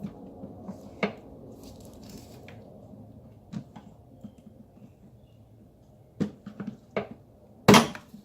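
Scattered clicks and knocks of hands working loose plastic hose fittings and connectors in a car's engine bay, with one loud sharp knock near the end.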